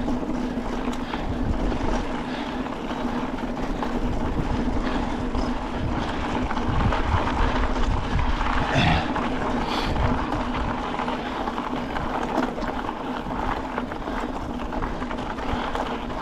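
Wind rushing over the microphone with a steady rolling rumble and hum from riding a bicycle along a trail.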